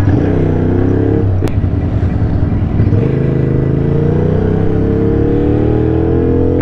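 Ducati Scrambler's L-twin engine pulling under throttle on the move. It climbs in pitch, drops at a gear change about a second and a half in, then rises steadily again through the rest, with low wind rumble underneath.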